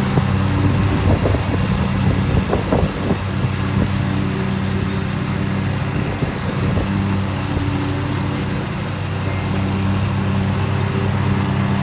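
Riding lawn mower engine running steadily while mowing grass, close by.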